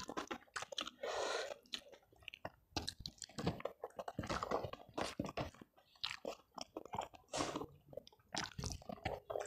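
Close-miked chewing of a mouthful of rice and fried food, with irregular crunching and wet mouth clicks.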